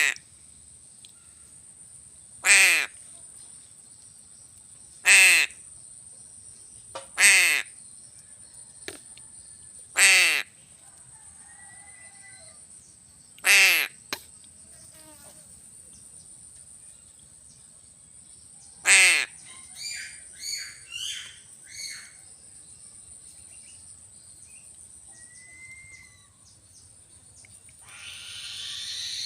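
Crow cawing: six loud single caws a few seconds apart, then a quick run of shorter, softer calls. A steady high-pitched whine runs underneath.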